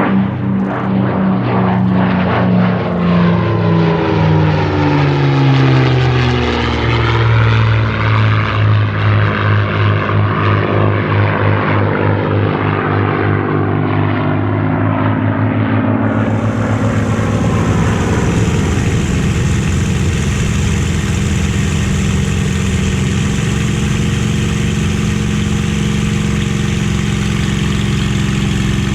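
Rolls-Royce/Packard Merlin V12 engine of a WWII piston fighter passing by, its pitch falling as it goes past. About halfway through the sound changes abruptly to a steady, even engine drone with more hiss.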